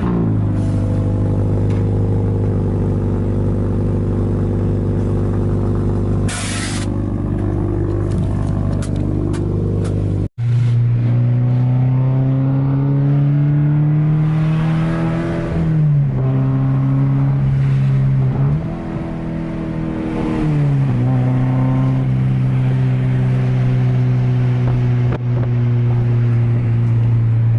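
Car engine running while driving: a steady drone at first, then, after a cut about ten seconds in, climbing slowly in pitch as it accelerates and dropping sharply twice, as at gear changes.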